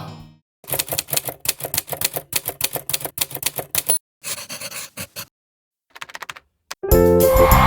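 A rapid run of sharp clicks, several a second, like keys being struck, for about three seconds, then a few softer scattered clicks with short silences. Music comes in near the end.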